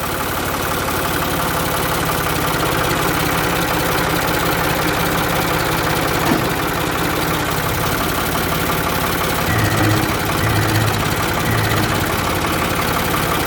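Farm tractor engine running steadily while working to push a broken tractor up onto a trailer, with three short bursts of sound near the end.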